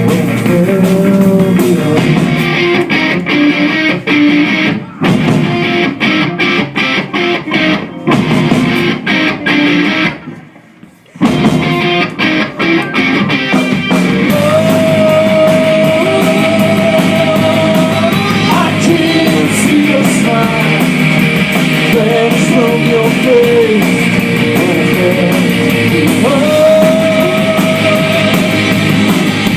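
Rock band with electric guitars playing an instrumental passage live: choppy stop-start hits for about ten seconds, a sudden break of about a second, then the full band comes back in with long held lead-guitar notes over it.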